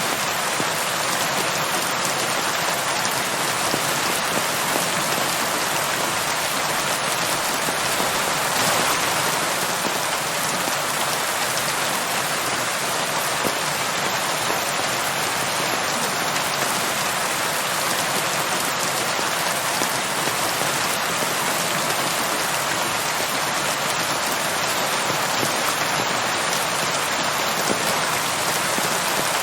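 Steady rain falling on a surface, an even, unbroken hiss of many drops.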